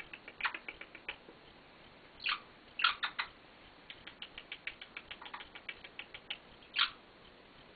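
White-bellied caique making small clicks and short squeaks: a quick run of ticks, about five a second, through the middle, and a few louder squeaks scattered among them.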